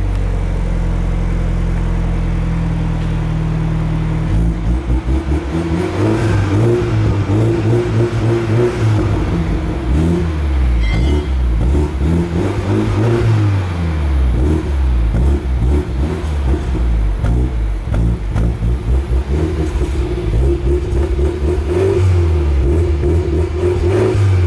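Exhaust of a BMW 320 (F30) fitted with a reworked system and M Performance tips: the engine idles steadily for about four seconds, then is revved again and again, the pitch rising and falling.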